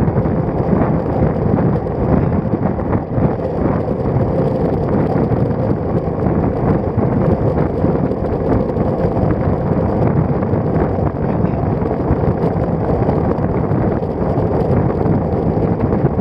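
Wind buffeting the microphone of an action camera mounted on a moving road bicycle's stem: a loud, steady rumbling rush.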